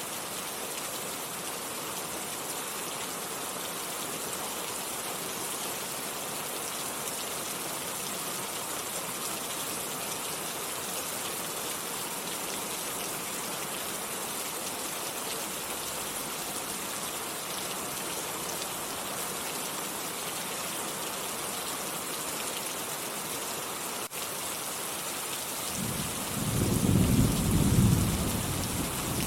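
Steady rain hissing. Near the end a low rolling rumble of thunder starts up and swells, becoming the loudest sound.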